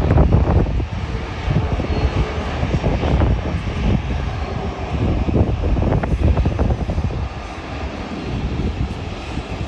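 Jet airliner engines rumbling loudly with a crackling roar as the aircraft passes, easing somewhat about seven seconds in.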